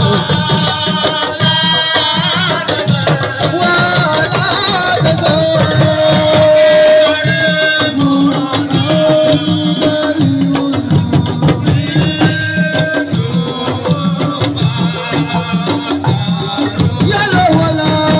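Live assiko band music: fast, dense hand-drum percussion under a wavering melody line, loud and continuous.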